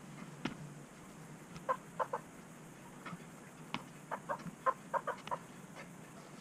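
Chicken clucking in two runs of short calls, the first about a second and a half in and the second about four seconds in, with a couple of sharp clicks between them.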